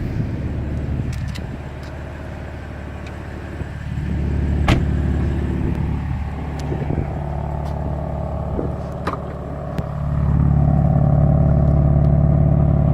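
BMW M3/M4 twin-turbo straight-six engine idling steadily, with a few sharp knocks over it; the idle grows louder about ten seconds in.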